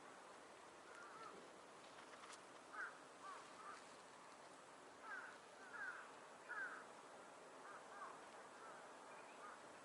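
Faint birds calling: about ten short, curving calls, some in quick pairs, over a quiet steady background hiss.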